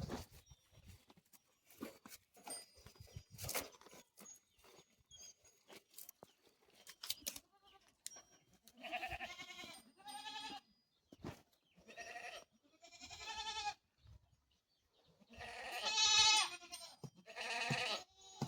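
Goats bleating: several long, wavering bleats in the second half, the loudest about three-quarters of the way through, after a stretch of scattered light clicks and knocks.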